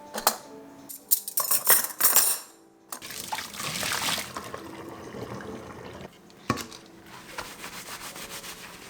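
Dishes clinking against each other, then a kitchen tap running water into the sink, with one sharp knock partway through.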